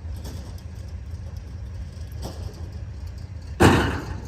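Farm three-wheeler's engine running with a steady low rumble. A loud thump about three and a half seconds in dies away over about half a second.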